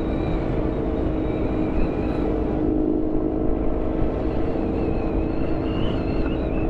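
Motorcycle engine droning at a steady cruising speed, with a faint high whine, under heavy wind rush on the microphone.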